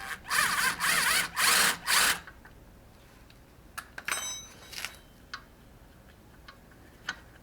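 A handheld power tool run in about four short, loud bursts, its motor note wavering. About four seconds in comes a brief metallic clatter with a ringing edge, then a few light clicks.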